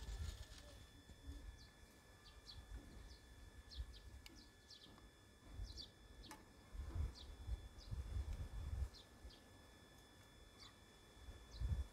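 Small birds chirping: short, high, falling chirps repeated every half second to a second, over a faint steady high tone. Low dull rumbles come and go and are loudest in the second half.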